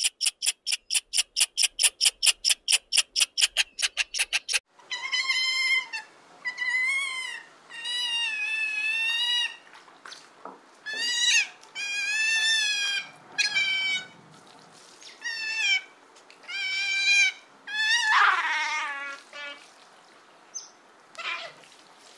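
Eastern grey squirrel chattering: a rapid run of sharp, evenly spaced chirps, about five a second, for the first four and a half seconds. Then sea otters squealing: a series of high, wavering calls of a second or so each, about nine in all.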